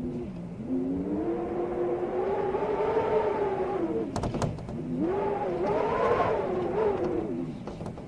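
Storm wind howling in two long gusts, its pitch rising and falling with each gust, with a few sharp clicks or knocks between them.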